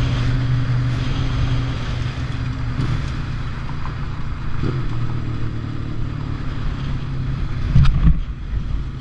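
Motorcycle engine running at a steady pitch, with a brief loud knock near the end.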